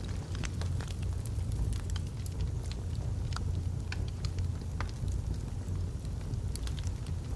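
Wood logs burning in a fireplace, crackling with irregular sharp snaps and pops over a steady low rumble of the flames.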